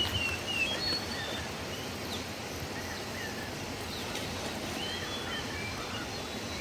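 Steady rushing of river water, with scattered short bird chirps over it.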